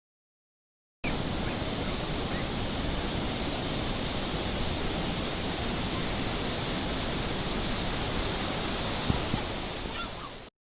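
Sea surf on a beach: a steady, even rushing noise that starts abruptly about a second in and cuts off suddenly just before the end, with a single brief click near the end.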